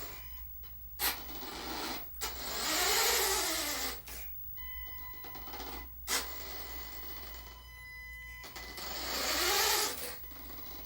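Small electric-driven hydraulic pump on a radio-controlled dump truck whirring in two bursts, each rising then falling in pitch, as the dump bed is worked up or down. A few sharp clicks come between the bursts, with a steady high whine in the middle.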